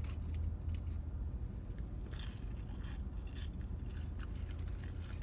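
Short crinkling and crunching noises from food being handled and eaten, most of them a couple of seconds in, over a steady low hum inside a car.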